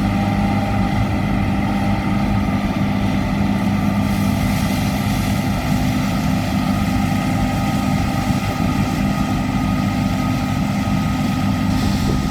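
John Deere S790i combine harvester running steadily while harvesting wheat: a constant engine and machinery hum with several steady tones.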